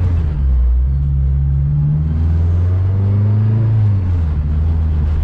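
Turbocharged Honda Civic Si's four-cylinder engine heard from inside the cabin, pulling under throttle. The engine note climbs for a few seconds, then drops about four seconds in.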